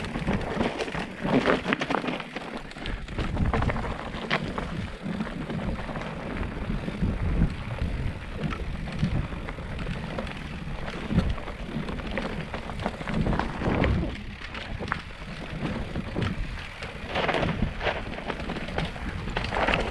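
Mountain bike rolling fast down a rough, stony trail: tyres crunching and rumbling over gravel and rocks, with irregular knocks and rattles from the bike.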